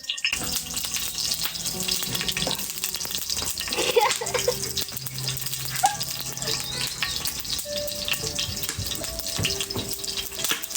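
Meat frying in hot oil in a pan over a wood fire: a dense crackling sizzle that starts suddenly just after the opening and keeps up steadily.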